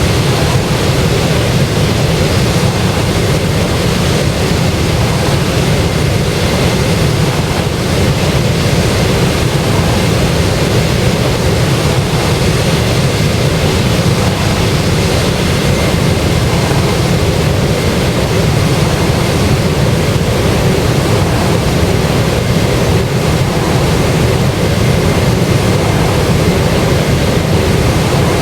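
Boeing 737-800's twin jet engines running steadily, a loud continuous rush of noise with a faint steady whine in it.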